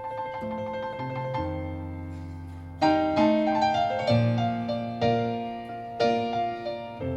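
Piano playing a slow ballad interlude without vocals, reproduced through a car audio system in the car's cabin: chords struck about once a second over low sustained bass notes, each fading before the next.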